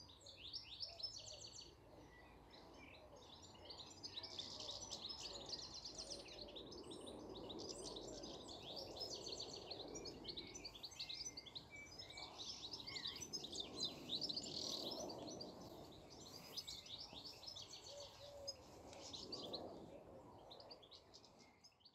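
Birds singing, many overlapping chirps and trills in a continuous chorus, over a faint low background rumble.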